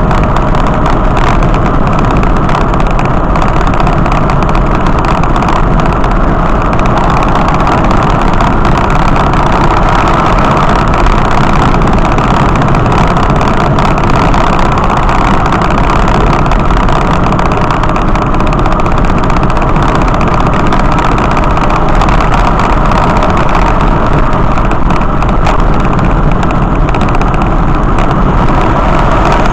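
Steady engine and road noise of a moving vehicle, unchanging throughout.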